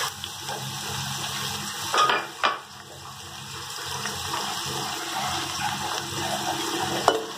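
Chopped onions sizzling in hot oil in a steel kadhai, a steady hiss, with two brief knocks about two seconds in.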